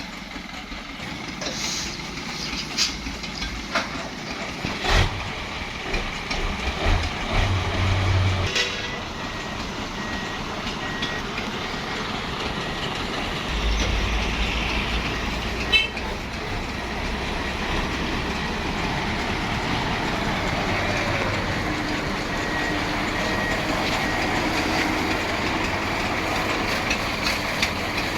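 Heavy truck sound, running with a steady noisy rush that slowly grows louder. A few sharp knocks and a thin high whistle come and go.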